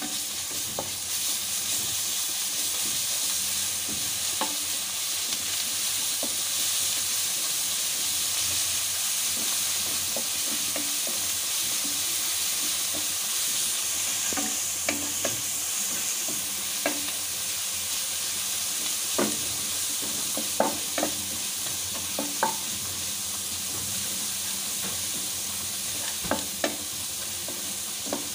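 Sliced onions and freshly added garlic paste sizzling in hot mustard oil in a wok. From about halfway in, a spatula stirs them, knocking and scraping against the pan in scattered clicks.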